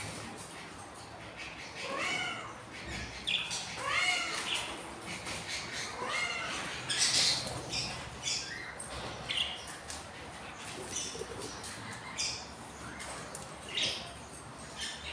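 Budgies calling: three drawn-out arching calls about two seconds apart, then scattered short, high chirps.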